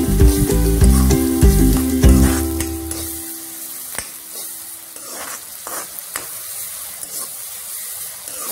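Chopped onions and green chillies sizzling in hot oil in a kadai while a spatula stirs and scrapes them through the pan, with several scraping strokes in the middle. Light background music plays over the first few seconds and then stops.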